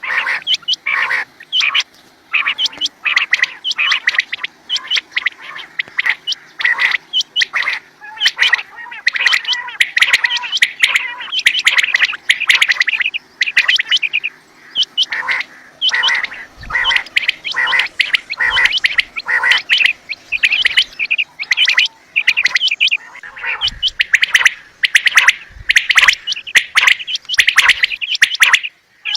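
Quails calling: rapid, repeated chirping calls that come thick and almost without pause, with only a few short breaks.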